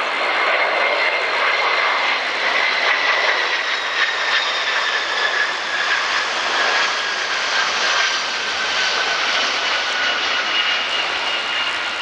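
Yak-42D airliner's three D-36 turbofan engines passing close by: a loud, steady jet rush with a high whine that slowly falls in pitch.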